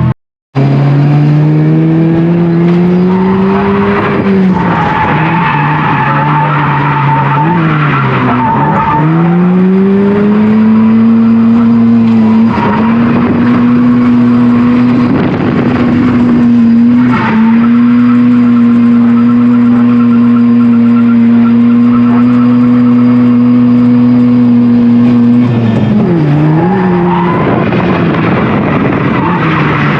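Mazda FC RX-7's naturally aspirated 13B two-rotor rotary engine revving hard through a drift, with the tyres skidding. After a split-second cut, the revs climb and drop twice in the first ten seconds, then hold steady and high for about fifteen seconds before dipping and picking up again near the end.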